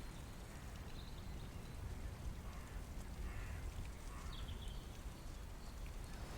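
Quiet outdoor ambience: a steady low wind rumble on the microphone with a few faint bird chirps.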